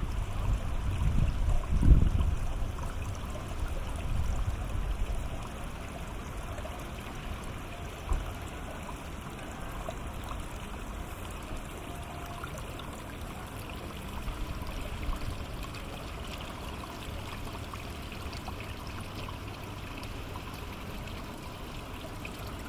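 Steady water trickling and washing along the shore, with low gusts buffeting the microphone in the first few seconds.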